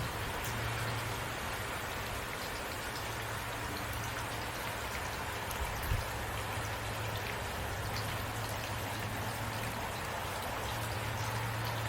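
Heavy rain falling steadily, a dense even hiss with scattered drop ticks and a steady low hum beneath. A single low thud about six seconds in.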